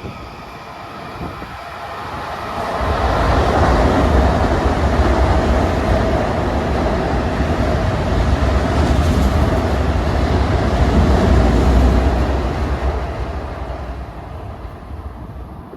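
A Long Island Rail Road train passing close by: a heavy rumble of wheels on rail that swells in about two seconds in, holds loud for around ten seconds, then fades away.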